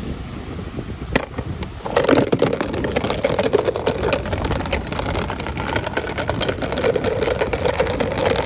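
Packaging crackling and rustling as it is handled and opened, a dense run of rapid crackles starting about two seconds in after a low rumble and a single click.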